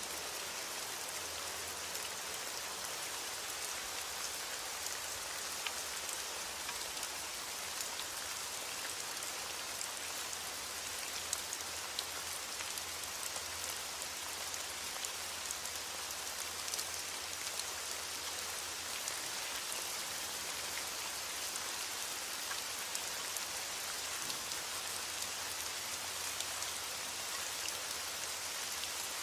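Heavy rain falling steadily on a window: a dense, even hiss with many small scattered ticks of individual drops.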